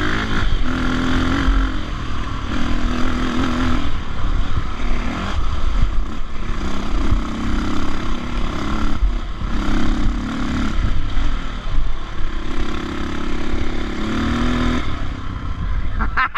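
Dirt bike engine pulling hard up a long hill climb, revving in repeated rising surges with short dips between them as the throttle is worked and gears change.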